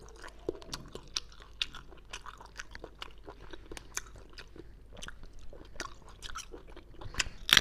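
Close-miked chewing of chewy sea snail meat: wet mouth clicks and smacks at an irregular pace, a little louder near the end.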